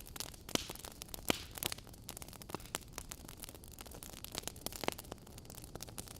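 Wood fire crackling in a fireplace: irregular sharp pops and snaps over a soft steady hiss, with a few louder pops.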